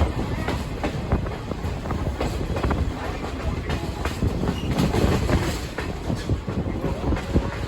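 Passenger train rolling along the track: a steady low rumble of the coach with irregular clicks and clacks of the wheels over the rail joints.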